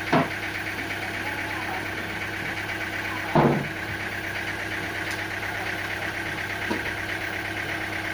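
Sawmill machinery running with a steady hum, broken by two brief louder noises, one right at the start and one about three and a half seconds in.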